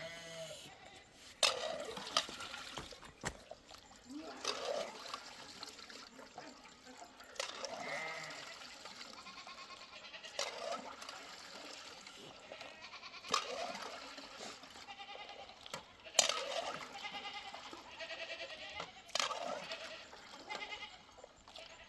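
Livestock bleating: short calls repeating about every three seconds.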